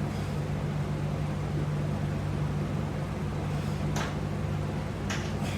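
Steady low mechanical hum, like a fan or air conditioner running, with a few short clicks about four seconds in and near the end.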